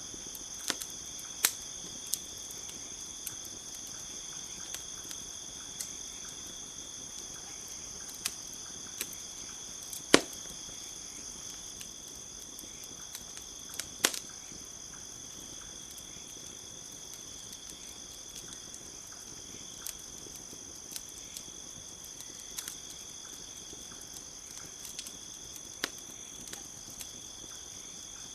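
Campfire crackling with sharp, irregular pops, the loudest about ten and fourteen seconds in, over a steady, high-pitched chorus of crickets.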